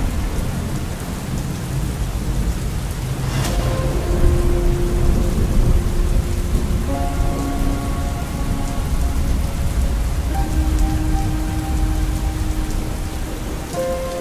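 Heavy rain falling with a continuous low rumble of thunder, and a sharp crack about three and a half seconds in. Held notes of soft background music sound over it.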